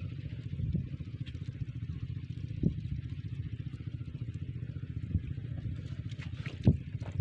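Small diesel engine driving a water pump, running steadily with a rapid, even chugging and a few louder knocks.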